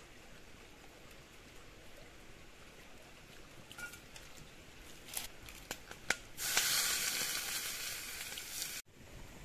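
Whole spices in hot oil in an iron pan, with a few sharp pops. Then chopped onion is tipped in, setting off a loud sizzle that stops abruptly near the end.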